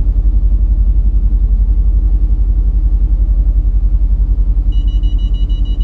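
Mercedes-AMG GT's twin-turbo V8 running with a deep, steady rumble, heard from inside the cabin. Near the end a rapid high electronic beeping starts.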